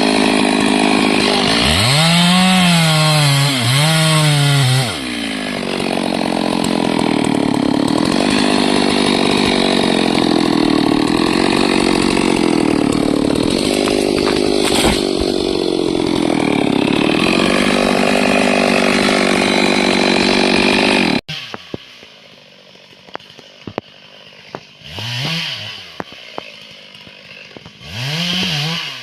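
Stihl MS 382 two-stroke chainsaw revving twice, then running loaded in a long cut through timber, its pitch lower and wavering under the load. About two-thirds of the way through the sound cuts off abruptly, and a much quieter stretch follows with two short revs.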